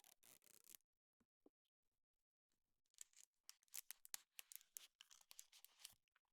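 Faint crinkly rustling and small clicks of something being handled close to the microphone: a short burst at the start, then a longer crackly stretch from about three seconds in.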